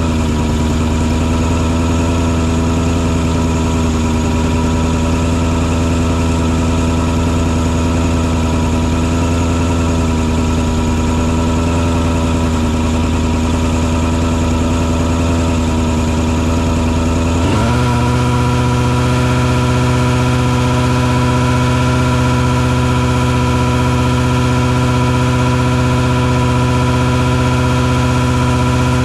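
Engine on a mosquito-fogging truck rig running steadily. About seventeen seconds in it quickly picks up speed, rising in pitch, and settles at a higher steady speed.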